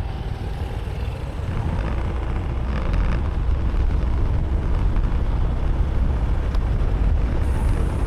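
Motorbike riding noise picked up by an action camera mounted on the front of the bike: a steady low rumble of wind and engine, growing somewhat louder about three seconds in.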